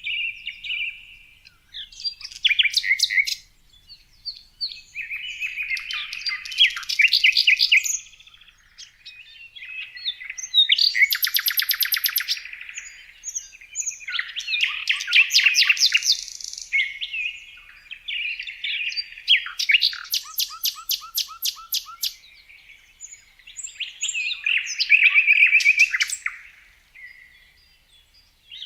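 A songbird singing a series of complex phrases of rapid trills and whistled notes, each lasting two to three seconds and repeated about every four to five seconds with short pauses between.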